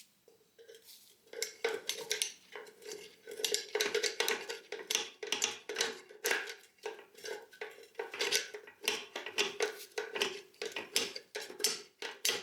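Drum-brake star adjuster being turned with a tool to back the brake shoes in: a run of quick, irregular metallic clicks starting about a second in, with a steady metallic ring under them.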